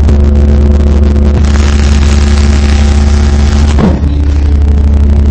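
Six Audiopipe SPL 15-inch subwoofers playing a continuous, very loud low bass test tone (a 72 or 66 Hz SPL 'burp'), steady throughout with overtones above it, and a brief dip about four seconds in.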